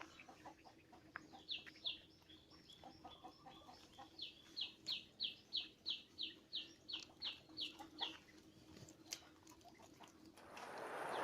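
A songbird calling: a rapid series of about a dozen sharp, repeated down-slurred notes at roughly three a second, with scattered fainter chirps around it. Near the end a rushing noise swells in.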